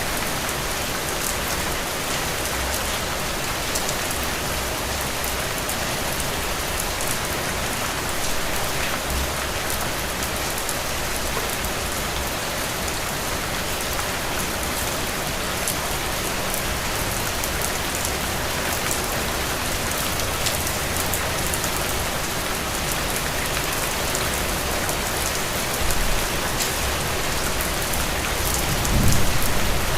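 Heavy rain falling steadily. A low rumble of thunder begins near the end.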